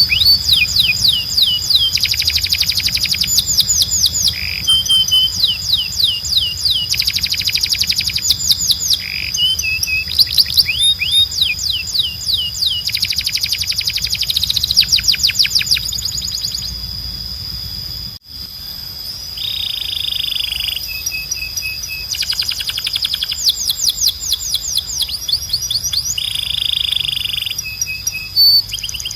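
Belgian canary singing continuously, in phrases of fast repeated notes and rolling trills, with a steady high whistle running under them. The song breaks off for a moment about two-thirds of the way through, then resumes.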